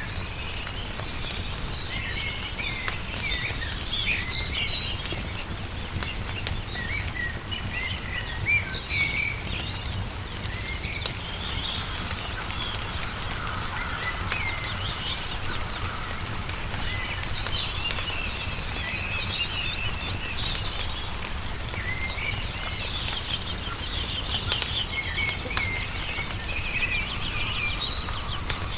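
Songbirds chirping in frequent short calls over the crackle of a wood fire, with a steady low rumble underneath.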